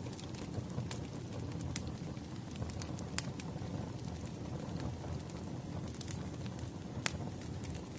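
Crackling wood fire: a steady low rumble of burning logs with sharp pops at irregular intervals, the loudest about seven seconds in.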